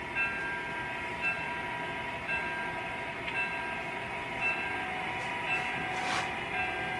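Model GP35 diesel locomotive running: a steady whine with a small pulse about once a second, and a short hiss about six seconds in.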